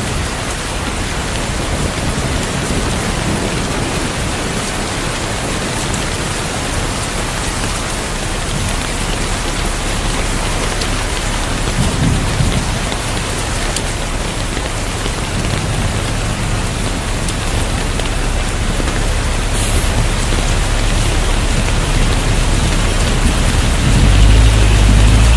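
Steady heavy rain hissing on surfaces, with low rumbles of thunder rolling in midway and growing stronger near the end.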